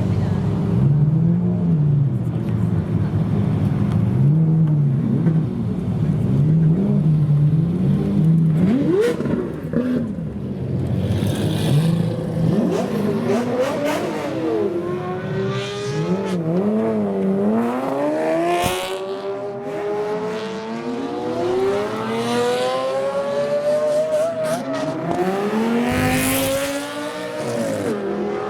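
Supercar engines, chiefly Lamborghinis, revving low and unevenly for the first several seconds. Then, from about twelve seconds in, a string of cars accelerates hard one after another, each engine note rising through the gears and overlapping the next.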